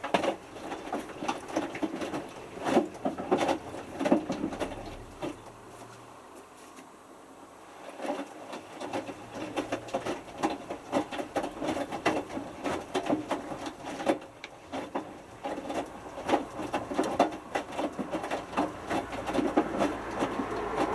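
Hotpoint Futura HF8B593 washing machine drum tumbling during the main wash, with a small load of t-shirts and water sloshing and splashing against the drum over a low motor hum. The tumbling stops for a moment around six to eight seconds in, then the drum starts turning again.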